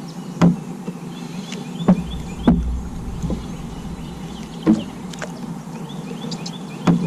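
Scattered knocks and thumps on a kayak, about five in all, over a steady low hum.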